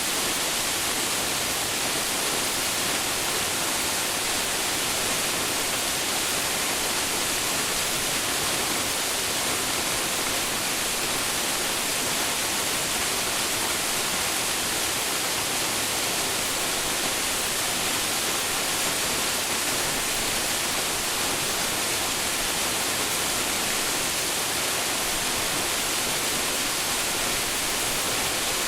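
Waterfall pouring steadily into its plunge pool, a constant rushing hiss with no breaks or changes.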